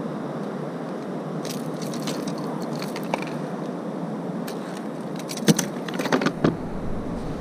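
Scattered clicks, knocks and rattles of fishing tackle and the kayak being handled while a hooked bass is brought in and unhooked, with a louder cluster of knocks a little over halfway through. Steady wind and sea noise runs underneath.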